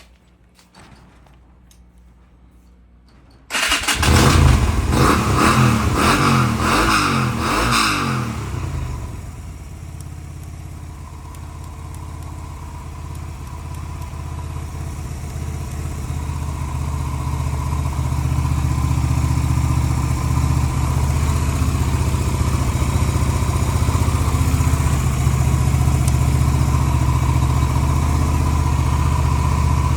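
Yamaha Renaissa motorcycle's 250 cc air-cooled V-twin starting about three seconds in: it fires suddenly and runs loud and uneven for a few seconds, then settles into a steady idle that slowly grows louder. A few faint clicks come before it starts.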